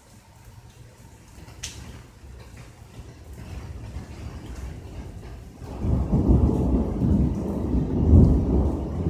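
Rolling thunder. A low rumble builds over a few seconds and breaks into a loud, heavy roll about six seconds in, with a few scattered raindrop ticks before it.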